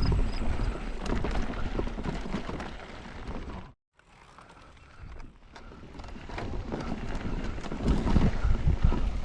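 Mountain bike descending a dirt bike-park trail, heard from an action camera on the bike or rider: tyres on dirt with the chain and frame rattling over bumps and wind on the microphone. The sound cuts out completely for a moment a little before the middle, then returns quieter and builds again.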